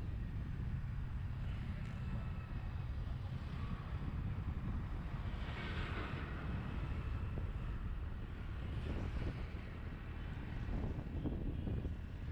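Wind buffeting a GoPro Hero 7 Black's microphone while riding through city traffic: a steady low rumble with road and traffic noise under it. About six seconds in, a brighter passing sound rises briefly over it.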